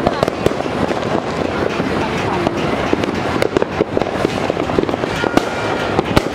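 New Year's Eve firecrackers and fireworks going off all around in a dense, continuous crackle, with louder single bangs scattered through it, several of them in the second half.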